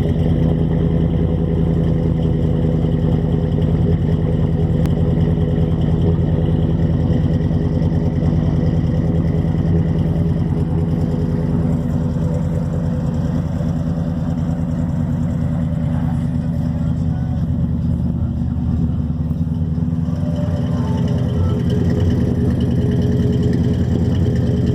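1977 GMC squarebody pickup's engine and exhaust idling steadily, easing a little in the middle before coming back up.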